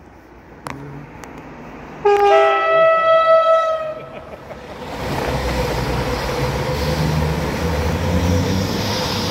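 CrossCountry Voyager diesel multiple unit sounding its two-tone horn, a low note and then a higher one, for about two seconds. It then passes close by with its underfloor diesel engines and wheels on the rails making a loud steady rumble.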